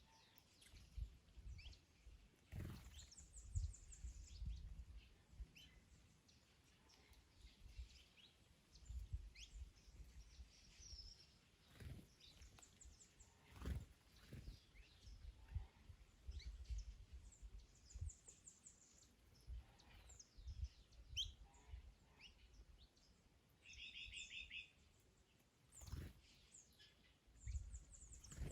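Several small birds chirping and trilling in short, scattered calls, with gusts of wind rumbling low on the microphone that come and go, and a few sharp clicks.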